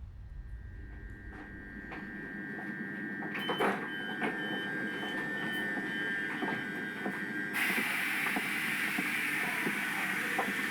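Horror film soundtrack of a train interior: a low rumble with a steady high tone and a quick run of short beeps. About seven and a half seconds in, a loud hiss comes in.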